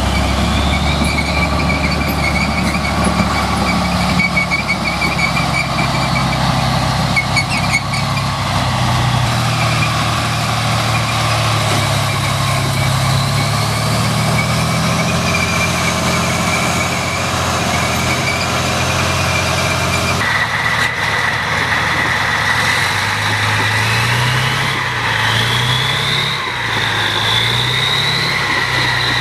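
Heavy vehicle engine running, with a high whine that glides up and down in pitch; the sound changes abruptly about two-thirds of the way through.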